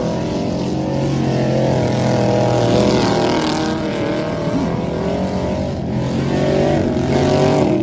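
Truck engines running through loud exhausts, a steady low note with higher engine tones that rise and fall slightly in pitch.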